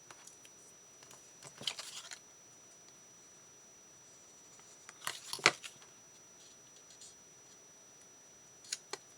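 Cardstock scraps being handled: three short bursts of crisp paper rustling and scraping, the loudest with a sharp click about five and a half seconds in.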